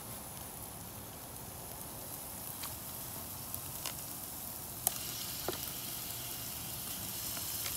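Blended onions and spices frying in oil in a large stainless steel pot, a steady sizzle with a few sharp clicks. The sizzle grows louder about five seconds in as chunks of raw chuck beef are dropped into the hot pan.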